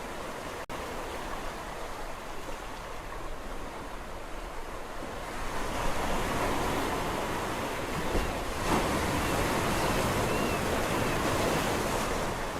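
Sea waves on a shore: a steady hiss of surf, then a wave breaks about five seconds in and its wash runs louder until near the end. A single brief click sounds near the start.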